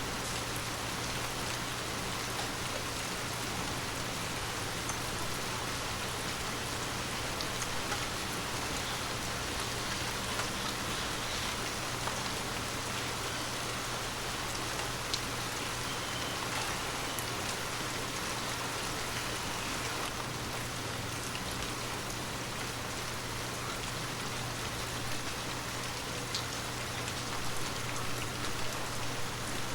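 Heavy rain falling steadily: an even hiss with scattered sharper drop impacts, over a low steady hum.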